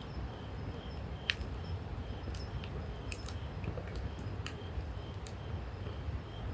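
Wood campfire crackling, with a dozen or so sharp irregular pops and snaps, the loudest about a second in, over a steady low rumble.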